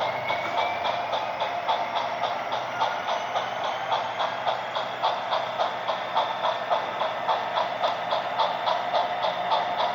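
Model locomotive running on its digital sound decoder, playing a steady rhythmic clicking at about four beats a second under a steady tone. A thin whine rises in pitch over the first few seconds.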